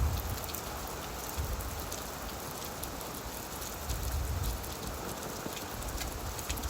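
Steady rain falling on leaves, an even hiss dotted with the ticks of single drops. A low rumble swells near the start and again about four seconds in.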